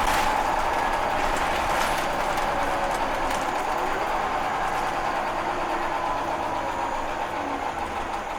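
Scania L94 single-decker bus heard from inside the saloon: engine and running noise with a steady whine and a few rattles, gradually growing quieter.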